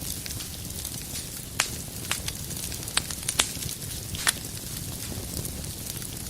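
Fire burning in a fireplace, crackling: a steady low rushing with about five sharp pops clustered between one and a half and four and a half seconds in.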